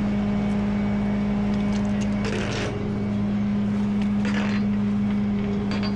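Large truck engine idling with a steady low hum, with two brief hisses about two and four seconds in.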